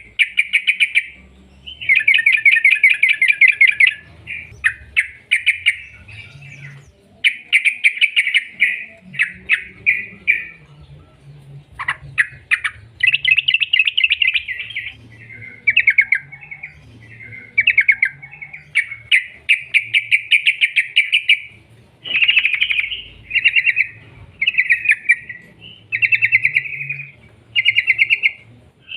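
Yellow-vented bulbul (trucuk) singing in long runs of rapid, evenly repeated chattering notes, the fast 'ropel' trill, one run after another with short breaks between.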